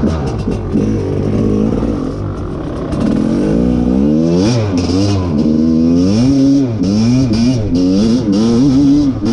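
Rieju MR 300 single-cylinder two-stroke enduro engine under load off-road, its revs rising and falling again and again as the throttle is worked, with quick short blips in the second half.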